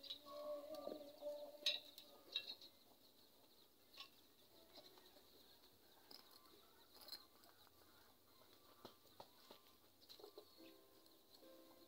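Near silence: faint background with a bird calling briefly near the start and again near the end, and a few faint clicks.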